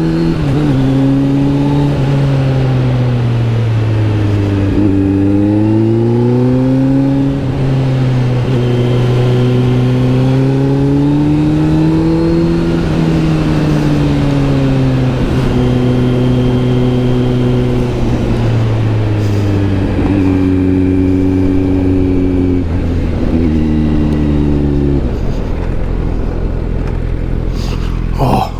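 Kawasaki Z900 SE's inline-four running through an SC Project S1 exhaust while riding. The engine note rises and falls repeatedly with throttle and gear changes, holds steady in between, and settles to a low, even note about 25 seconds in.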